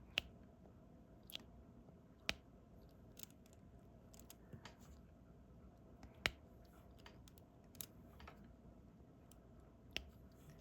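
Faint, scattered clicks and taps of a diamond-painting pen picking up small resin drills and pressing them onto the sticky canvas, about half a dozen sharper ones spread unevenly.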